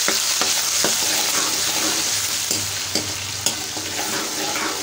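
Ginger-garlic and green chilli paste sizzling in hot oil in a large wok-shaped steel pan, with a metal spoon stirring and scraping against the pan now and then. There is one sharper clink about three and a half seconds in.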